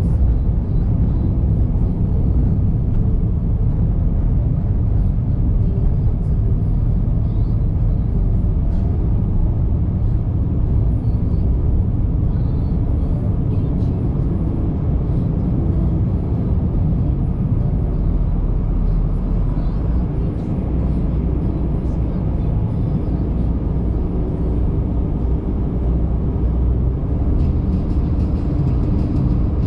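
Steady low rumble of a car driving, a mix of engine, tyre and road noise.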